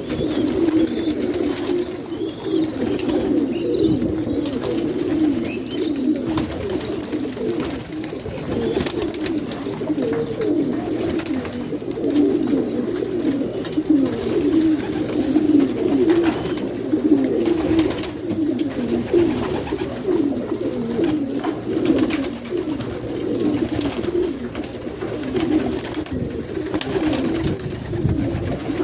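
Many domestic pigeons cooing continuously in an overlapping chorus, low and warbling, with occasional clicks and scuffs.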